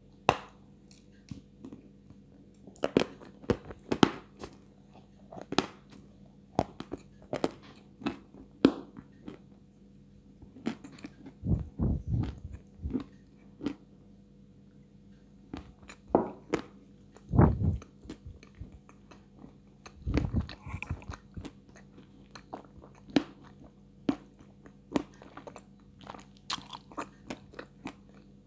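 Close-miked crunching and chewing of dry, hard Astana 2 edible clay: irregular sharp bites and crackles. A few louder, deeper bursts come about 12, 17 and 20 seconds in.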